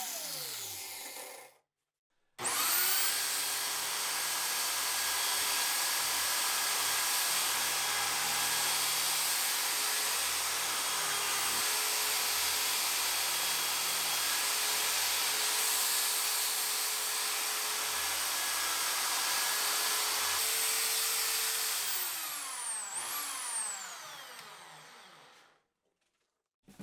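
A high-speed electric power tool runs steadily with a whine over a dense hiss. It is switched on about two seconds in and spins up fast, then near the end it is switched off and winds down to a stop. The tail of an earlier run winds down at the very start.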